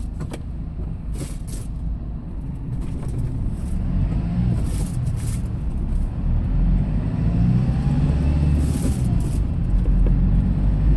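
Engine and road rumble of a moving vehicle, heard from inside, growing steadily louder, with a few short hissy ticks.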